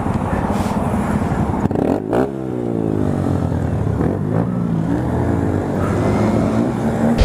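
Dirt bike engine revving and accelerating, its pitch climbing and falling back several times, loud and close.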